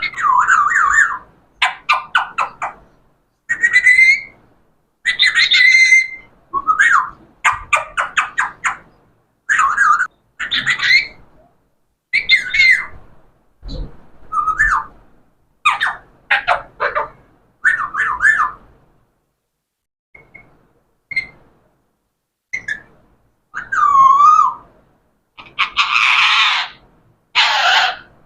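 Pet parrot calling: a run of short whistled and chattering calls about once a second, with two harsh squawks near the end.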